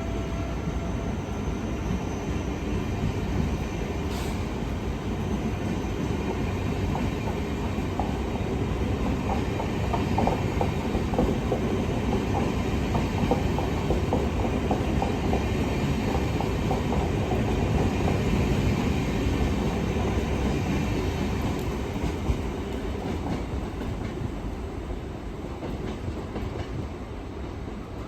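InterCity 225 electric train running on the rails, its wheels clattering over rail joints in a steady rumble. The noise grows louder toward the middle and eases off near the end.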